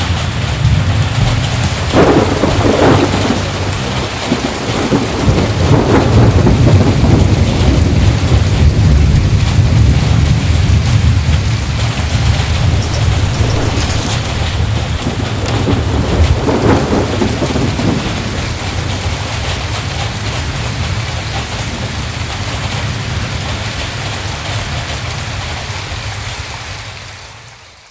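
Heavy rain falling steadily with thunder rumbling and crackling several times, the whole storm fading out near the end.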